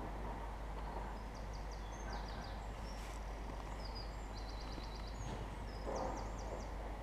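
A small songbird sings short phrases of quick repeated high notes, several times over, above a steady low background rumble.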